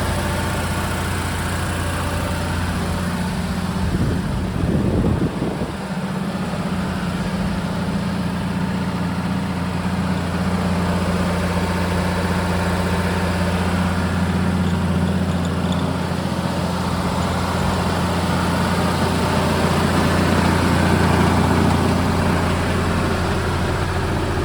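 Unimog U1550L's Mercedes diesel engine idling steadily, with a brief rougher stretch about four seconds in.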